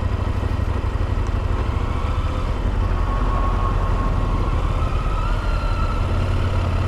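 KTM adventure motorcycle's engine running steadily with a low rumble, and a faint whine that rises slightly in pitch about five seconds in.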